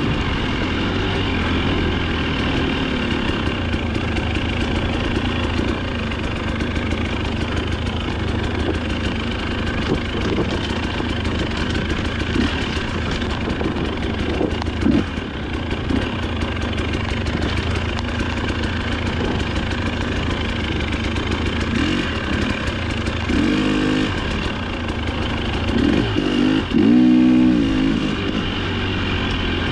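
Dirt bike engine running under load while riding off-road, its note rising and falling with the throttle, with a couple of short louder surges in the last few seconds.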